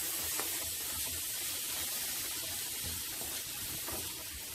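Chopped onion and tomato sizzling in ghee in a frying pan as a spatula stirs them: a steady hiss with a few faint clicks.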